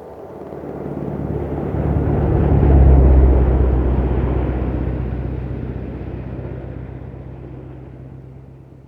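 A low rumble with a steady low hum swells to its loudest about three seconds in, then slowly fades away.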